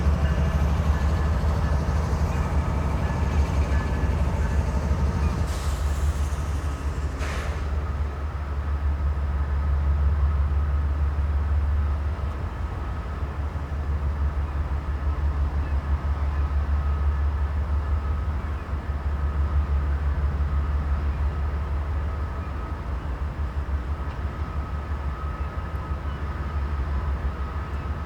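A train running with a steady low rumble and a faint steady hum over it. Two short sharp sounds cut in about six and seven seconds in.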